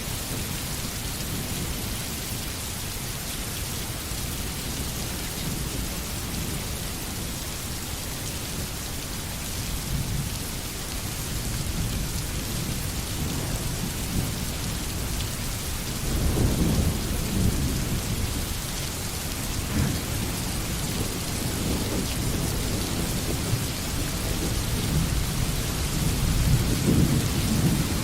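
Steady rain hissing on foliage and ground, with low rolling rumbles of thunder that swell about halfway through and again near the end.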